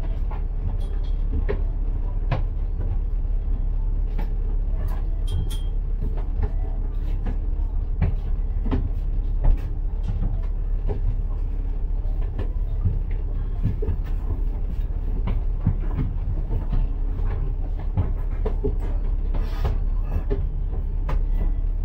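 Inside a moving bus: a steady low engine and road rumble with frequent rattles and knocks from the body and fittings, the sharpest knock about nine seconds in, and a brief high squeak around five seconds in.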